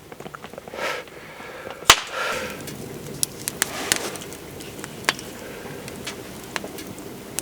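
Wood fire crackling, with scattered sharp pops and one loud snap about two seconds in.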